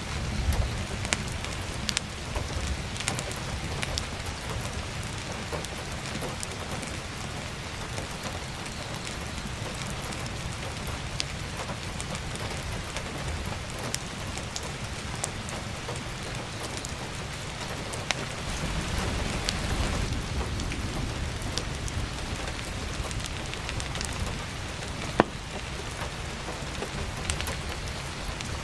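Steady heavy rain drumming on an attic skylight, mixed with the scattered sharp crackles and pops of firewood burning in a wood stove; one pop late on is much louder than the rest. A low rumble swells briefly a little past the middle.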